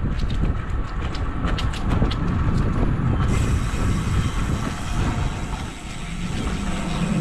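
Wind buffeting the microphone over the rolling noise of a carbon road bicycle being ridden, with a run of light ticks in the first three seconds. A higher steady hiss comes in about three seconds in.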